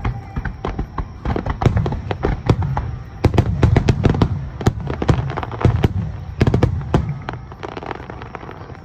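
Aerial fireworks bursting in a rapid barrage: many sharp bangs and crackles in quick succession, densest in the middle, then thinning out and fading near the end.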